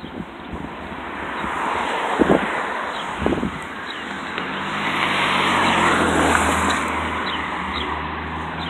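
A motor vehicle passing: engine hum and road noise swell to a peak about six seconds in and then ease off. Two sharp thumps sound around two and three seconds in.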